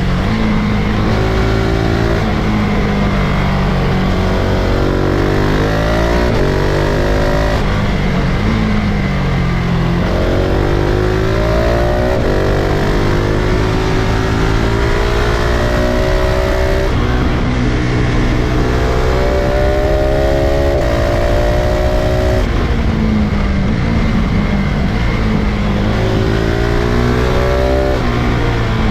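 KTM 690 SMC-R's single-cylinder engine under way, rising in pitch again and again as the rider accelerates and shifts up, with drops in pitch on deceleration about a third of the way in and again past two thirds.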